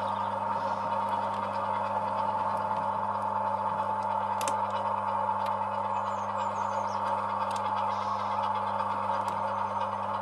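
Sound-fitted model diesel locomotive's engine sound running steadily during shunting, with a couple of faint clicks.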